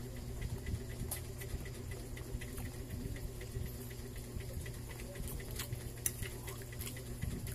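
Close-up chewing and wet mouth clicks of a person eating boiled egg and instant noodles, irregular and scattered, over a steady low hum.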